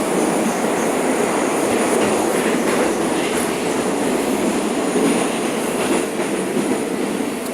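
Moscow metro train running between stations, heard from inside the carriage: a steady rumble of wheels on rail with a thin high whine above it, growing a little quieter near the end.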